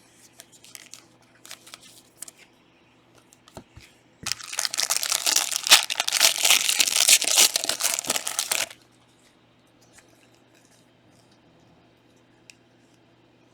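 A trading-card pack's foil wrapper being torn open and crinkled for about four seconds in the middle, with light clicks of cards being handled before and after.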